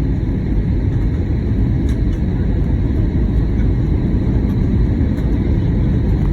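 Steady cabin noise of an Airbus A320neo airliner: a low rumble of engines and airflow with a faint steady whine above it.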